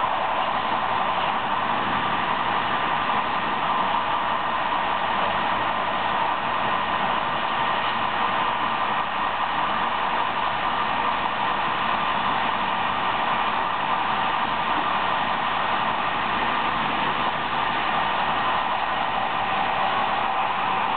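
Steady rushing noise of a Corail Intercités coach running along the line, heard from the rear of the train: wheels rolling on the rails and air moving past, even throughout with no distinct knocks or horn.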